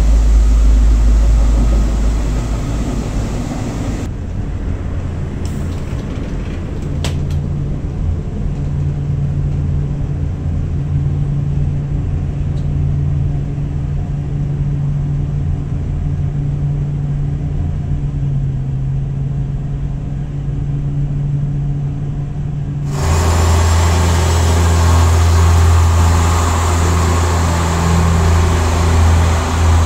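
Rail vehicle sounds in three sections. First the rumble of a train heard from inside the car, then a quieter steady hum inside the passenger saloon with a few light clicks. About 23 s in, a louder steady low hum with a rushing noise from a train alongside a station platform.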